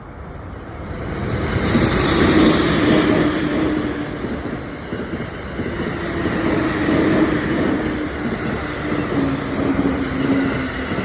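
A Utsunomiya Line train passing over a level crossing close by: a rumble that swells over the first two seconds and then stays loud, with a steady hum running through it.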